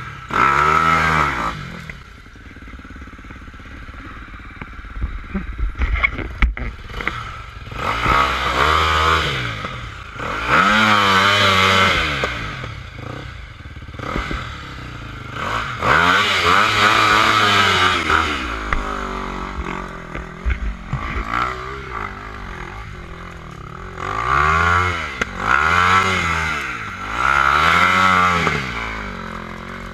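Off-road dirt bike engine revving up and down in repeated bursts over rough ground, with quieter running between them and some clattering knocks from the bike.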